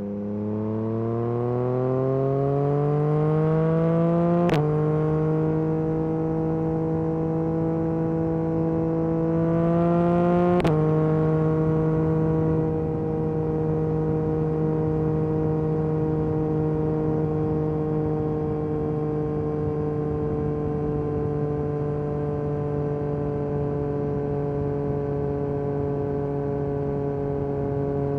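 Yamaha MT-09 SP's 890 cc inline-triple engine through an Akrapovic Carbon Racing exhaust, accelerating through two upshifts. The revs climb and then drop suddenly with a short crack about four and a half seconds in; they climb again and drop with another crack after about ten seconds. After that the bike cruises at a steady engine speed.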